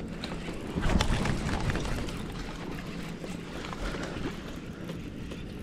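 Water splashing and knocking as a hooked bass is played and brought to a kayak, loudest about a second in.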